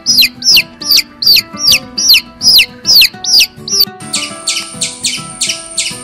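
A bird calling with a run of high chirps that fall steeply in pitch, about three a second; about four seconds in it cuts to a different, faster chirping call with a steady high whine behind it. Background music plays underneath.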